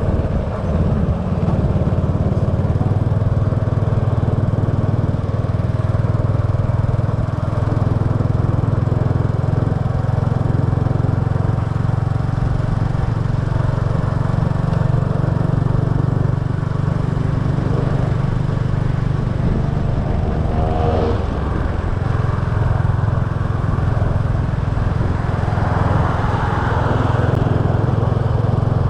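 Small motorbike engine running steadily while riding, heard from a camera mounted on the bike, with road and wind noise. About two-thirds of the way through, the engine pitch briefly falls.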